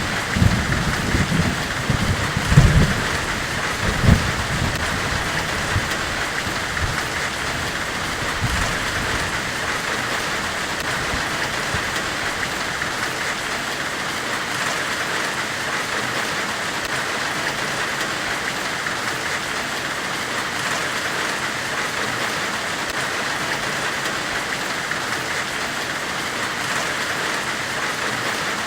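Steady, even hiss of a forge-weld white-noise ambience, strongest in the upper-middle range. A few low, dull thuds come in the first four seconds before the hiss settles unchanged.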